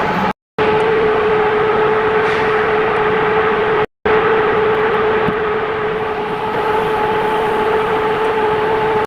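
Gas cutting torch running with a steady, loud hissing roar under a constant hum. The sound cuts out abruptly twice: once just after the start and again near four seconds in.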